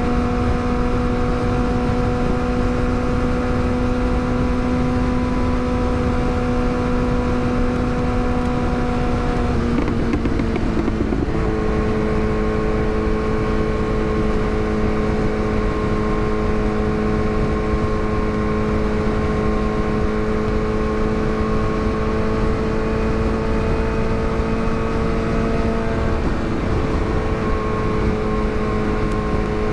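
Yamaha R6 inline-four sport bike engine running at steady cruising revs, over a steady rush of wind and road noise. About ten seconds in the engine note drops slightly after a brief rough patch, then holds and climbs gently again.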